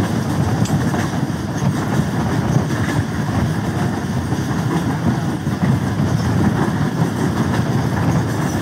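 Steady low rumble of a diesel passenger train, even in level throughout with no distinct knocks or rail-joint clicks.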